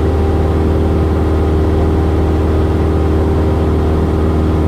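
Cessna 172S's four-cylinder Lycoming piston engine and propeller droning steadily in cruise flight, an even hum with no change in power.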